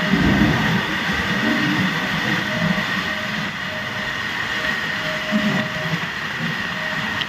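Goods trains running along the rails: a steady rumble and rattle of the wagons, with a steady high whine and a fainter lower tone that comes and goes.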